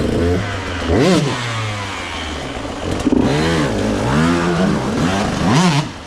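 Two-stroke enduro motorcycle engine revved in a series of quick throttle blips, its pitch rising and falling several times in succession.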